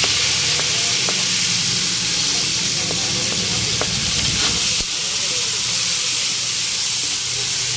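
Diced tomatoes sizzling steadily in hot oil with browned garlic, just added to the pan. A metal ladle stirs them, clicking against the pan a few times.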